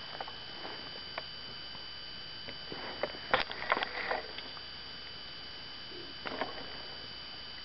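A few faint clicks and taps over a steady hiss, clustered in the middle and again briefly near the end.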